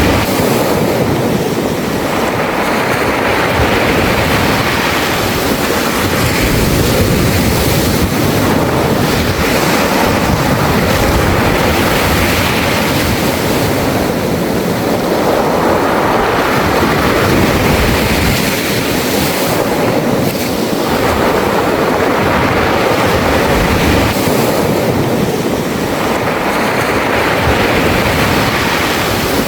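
Sea waves washing in and out over a beach of smooth round pebbles, the stones rattling as the water moves them, in repeated surges a few seconds apart.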